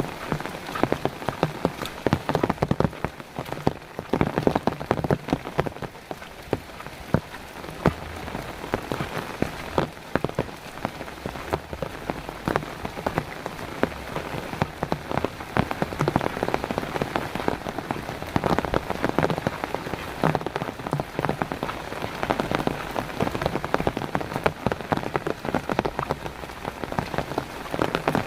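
Heavy rain falling steadily: a dense mass of individual drops striking surfaces.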